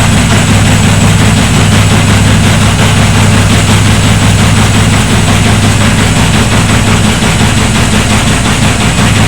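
Washing machine running on inverter power: a steady, loud, low machine hum.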